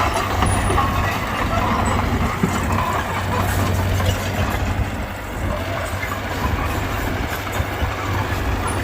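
Diesel engine of heavy earthmoving machinery running steadily, with a constant low hum.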